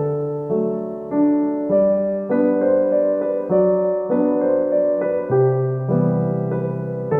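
Gentle background piano music, soft notes and chords changing at an even, unhurried pace.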